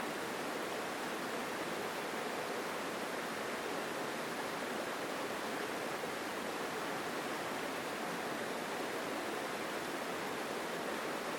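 Mountain stream rushing over rocks, a steady full water sound.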